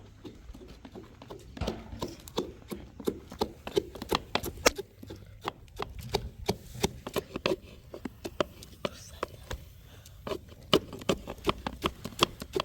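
A quick, irregular run of sharp clicks and knocks, several a second, starting about two seconds in, with faint voices underneath.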